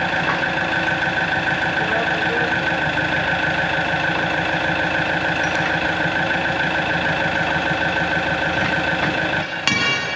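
An engine or motor running steadily at constant speed, with a steady whine above its drone. A few sharp metal strikes come near the end.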